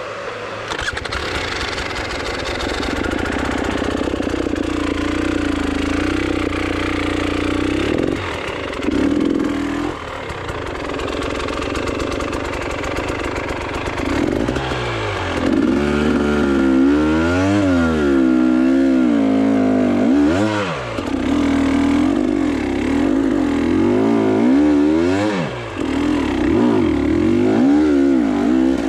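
Motorcycle engine running, then from about halfway revved up and down over and over.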